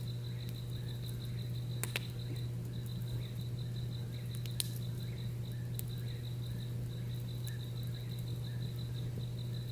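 Night insects trilling steadily in a rapid pulsing rhythm, with fainter repeated chirps below them. A campfire pops a few times, sharpest about two seconds in and again near the middle, over a steady low hum.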